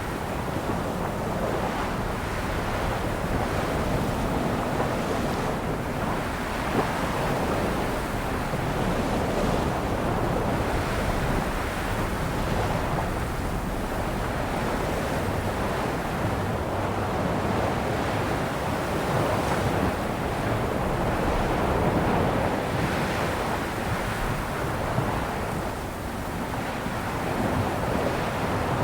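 Sea waves breaking and washing on a shore, a continuous surf noise that swells and eases every few seconds, with some wind rumble on the microphone.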